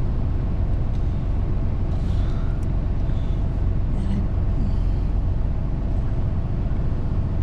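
Semi truck's diesel engine idling steadily, a constant low hum, with a couple of faint knocks from work inside the cab.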